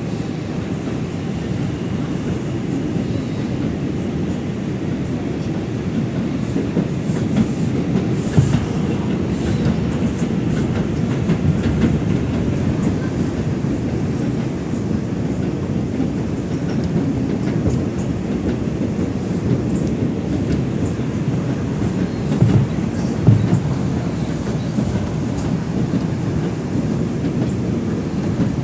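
R142 subway car running at speed, heard from inside the car: a steady rumble of wheels on the rails with occasional clacks over rail joints, and a faint steady high whine.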